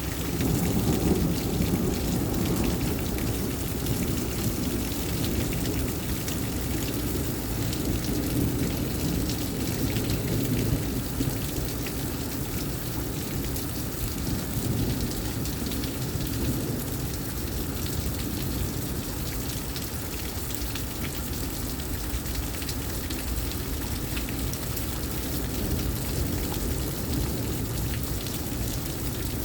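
Heavy rain pouring steadily in a severe thunderstorm, with a low rumble of thunder that is strongest through the first dozen seconds and then fades back into the rain.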